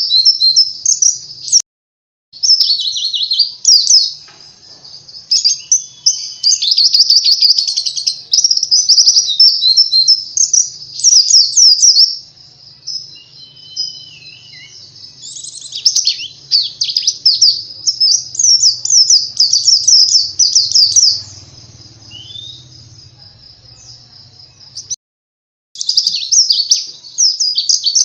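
Pleci (white-eye) song: fast, high-pitched twittering in long rapid runs of chirps, used as a lure to set other pleci singing. The song drops out to silence briefly twice, about two seconds in and again near the end.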